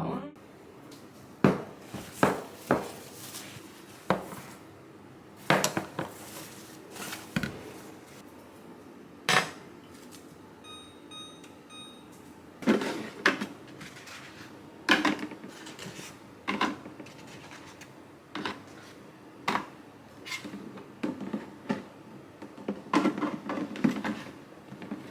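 Dishes and utensils being handled in a kitchen: scattered clinks and knocks of crockery and cutlery, with a short run of electronic beeps around the middle.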